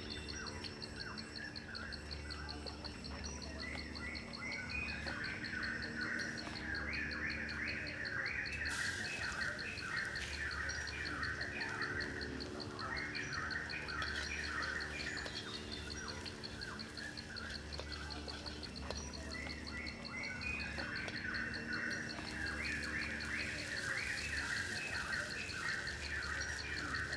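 Birds chirping in repeated runs of short notes, over a steady, evenly pulsing high insect trill.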